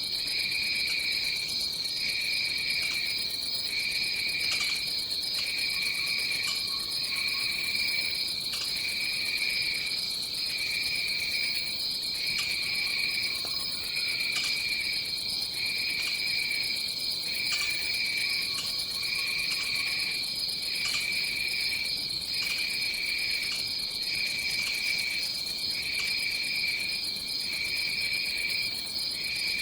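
Tropical jungle insect chorus: a steady high-pitched drone with a second, lower insect song pulsing in regular phrases about every second and a half. A few faint, lower calls come through behind it.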